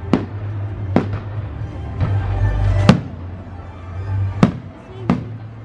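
Aerial fireworks shells exploding: five sharp bangs, the loudest about three seconds in. Music plays underneath.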